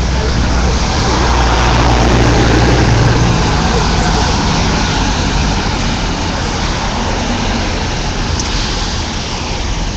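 A motor vehicle's engine running close by over steady street noise, swelling to its loudest about three seconds in and then easing off.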